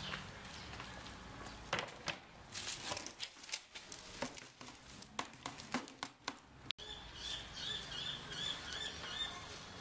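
Irregular scratching and tapping clicks, then after a sudden break a quick run of about six high chirps from a bird.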